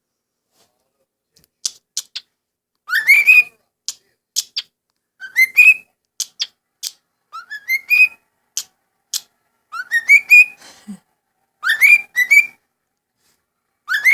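Pet parrot whistling a rising two-note call over and over, about every two and a half seconds, with short sharp chirps in between.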